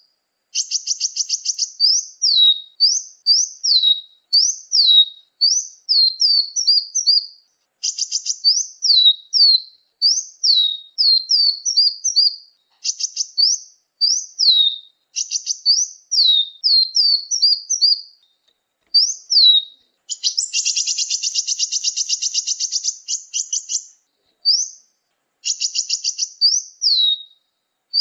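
Lure recording of small songbirds calling: short runs of high, sharply falling chirps, broken by brief pauses, with a buzzy rattling trill about two-thirds of the way through.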